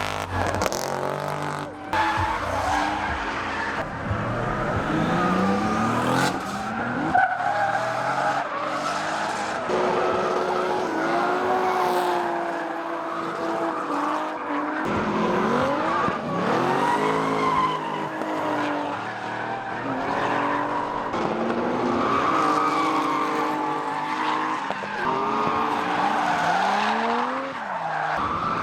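Drift cars sliding with tyres squealing, their engines revving up and down again and again as the drivers work the throttle through the slides.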